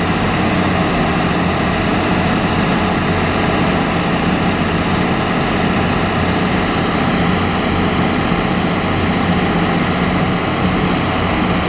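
Hitachi ZX200 excavator's diesel engine running steadily under working throttle, a continuous low drone.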